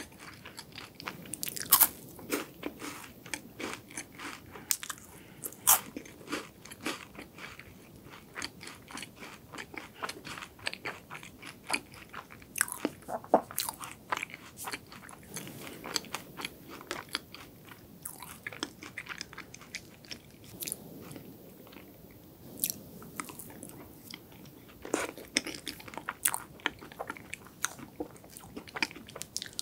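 Close-miked eating sounds: a crisp wafer bar being bitten and chewed, many sharp crunches in quick succession with the wet sounds of chewing between them.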